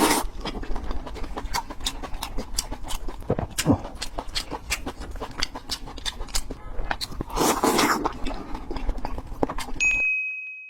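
Close-miked eating: steady wet chewing and mouth clicks with a few louder chomps, ending in a brief steady high tone before the sound cuts off suddenly.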